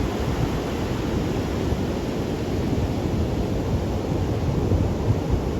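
Rough sea surf breaking wave after wave, a steady heavy noise of water, with wind rumbling on the microphone.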